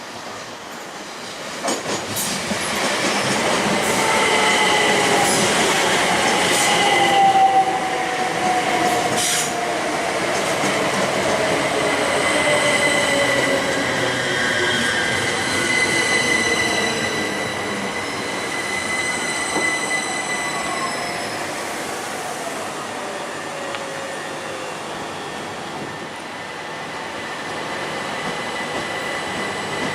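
A train running past or into a station, with a whine that falls slowly in pitch over many seconds, a steady high squeal from the wheels, and a few sharp clicks early on.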